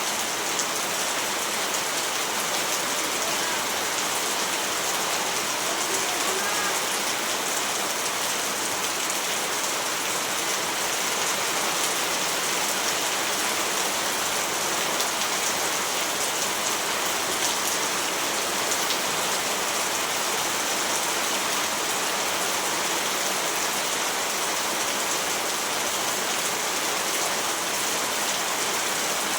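Steady rain falling on a surface, a dense even hiss with fine patter of individual drops.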